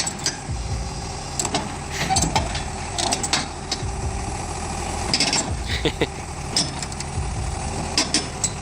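Heavy vehicle engine running steadily, with repeated short knocks and clanks throughout.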